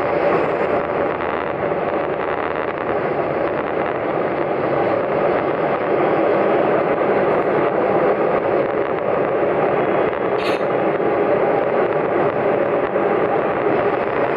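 Steady running noise of a KiHa 47 diesel railcar moving at speed, heard from inside the carriage, with one short tick about ten seconds in.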